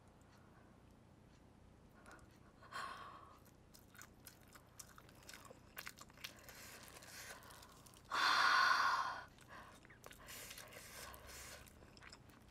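A person chewing glazed fried chicken close to the microphone, with soft wet clicks and crunches. About eight seconds in there is one louder breathy burst.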